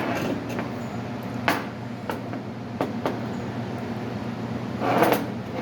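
Steady low workshop hum with a few sharp knocks and clinks of a metal part being handled, the loudest cluster near the end.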